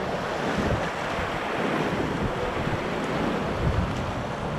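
Whitewater rapids of the Ganges rushing around a raft, a steady loud roar of water, with wind buffeting the microphone.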